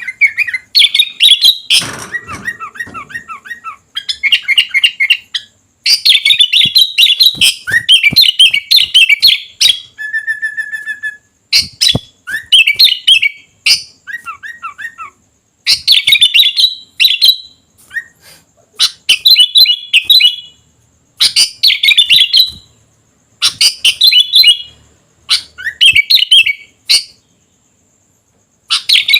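Sooty-headed bulbul in full song: loud phrases of rapid chirping notes, each a second or two long, repeated with short pauses between, and one brief steady whistle about ten seconds in.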